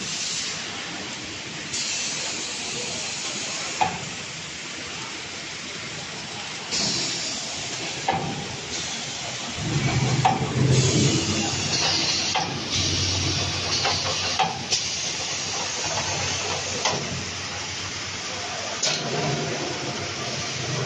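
Puff-snack production line machinery running: a steady hiss with scattered clicks and knocks, louder and lower for a few seconds about halfway through.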